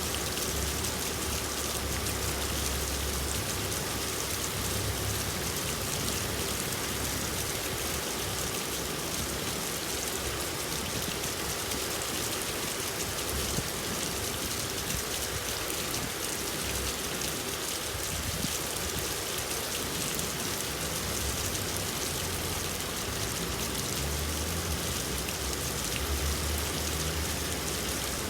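Steady rain falling and pattering on surfaces, an even hiss of many drops. A low rumble sits underneath at the start and again near the end.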